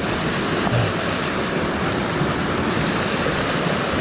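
Storm runoff in a canyon stream rushing steadily: a continuous, loud wash of fast-flowing water.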